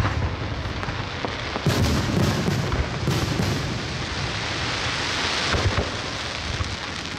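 Aerial fireworks bursting overhead: deep booms near the start and about two seconds in, over a dense crackling hiss of glittering stars that swells past the middle and fades near the end.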